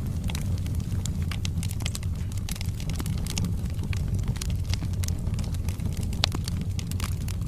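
Wood fire burning in a fireplace: a steady low rumble of flames with many irregular sharp crackles and pops from the burning logs, one louder pop about six seconds in.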